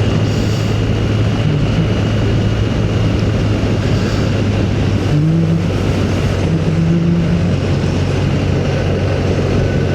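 Motorcycle running at a steady road speed: a constant low engine hum under a rush of wind noise, with the engine note briefly shifting about five to seven seconds in.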